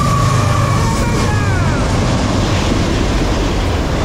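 Norfolk Southern freight train passing close by at speed. The GE ES44AC and Dash 9-44CW diesel locomotives rumble past, followed by autorack cars on the rails. A few high tones drop in pitch about a second in as the locomotives go by.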